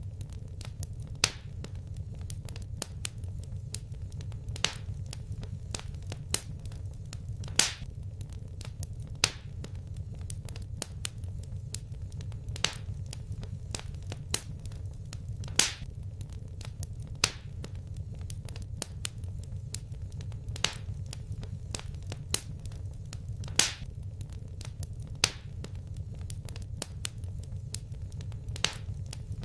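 Wood fire crackling in a fireplace: irregular sharp pops and snaps, a louder one every couple of seconds, over a steady low rumble of the flames.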